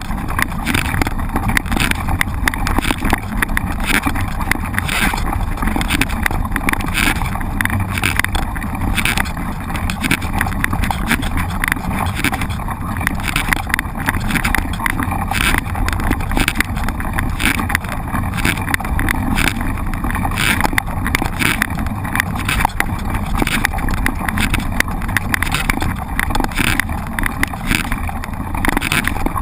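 Mountain bike ridden over rough ground: the bike rattles, with many irregular knocks several times a second over constant rolling and wind noise.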